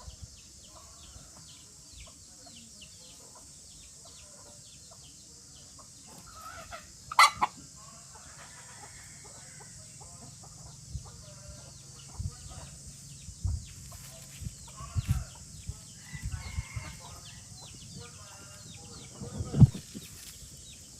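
Young chickens clucking and calling, with one sharp, loud call about seven seconds in. Several low thumps come through in the second half, the loudest near the end.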